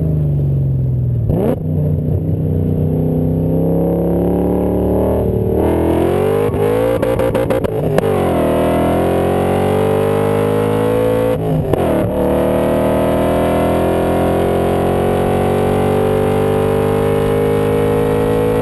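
BMW M5's V8 engine pulling hard under acceleration. Its pitch climbs steadily through each gear and drops back at each upshift, about three times, and it climbs more slowly in the last, taller gear.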